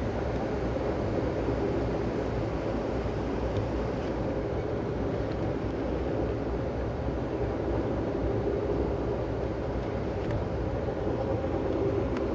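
Steady rolling rumble of a moving Amtrak passenger train, heard from inside the passenger car.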